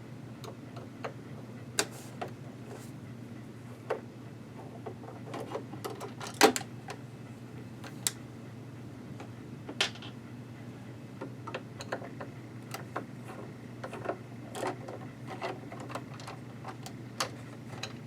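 Irregular small clicks and knocks of screws and a screwdriver being handled while a sewing machine is taken apart, over a steady low hum; the loudest knock comes about six and a half seconds in.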